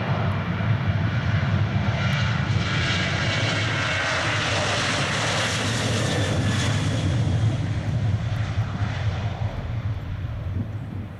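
Boeing 737-800's CFM56-7B jet engines at takeoff power: a deep rumble with a hiss that swells to its loudest about midway, then fades toward the end as the airliner goes past.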